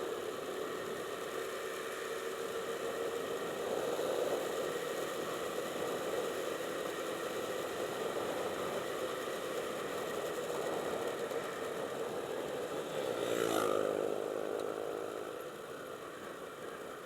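Motorcycle engine running steadily, with a brief louder swell of changing pitch about thirteen seconds in.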